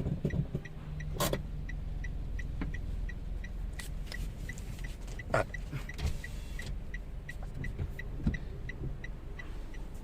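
Toyota Wigo's three-cylinder engine running with a steady low rumble and an even light ticking about three times a second, with a few louder clicks. It is misfiring on cylinder 1.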